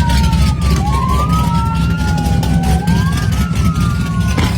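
Two sirens wailing slowly, each rising and falling over a couple of seconds, out of step with each other, over a heavy low rumble.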